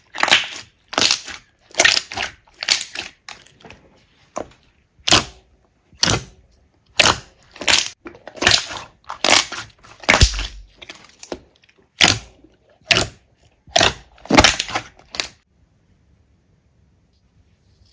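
Crunchy slime squeezed and pressed by hand, making a run of short crackling crunches, one or two a second, that stop about three-quarters of the way through.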